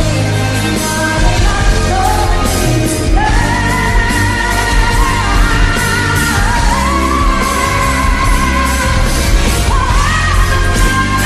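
A woman singing a pop ballad live over a full band, holding long notes with vibrato that step up in pitch through the phrase.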